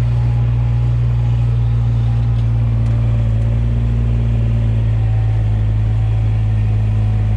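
Dually pickup truck's engine idling, a steady, deep, even hum.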